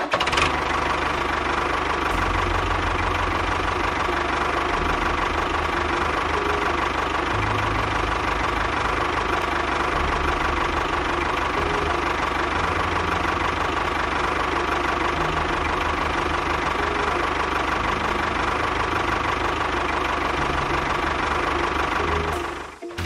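An engine running steadily with a low chugging rhythm whose pace shifts every few seconds. It drops out briefly near the end.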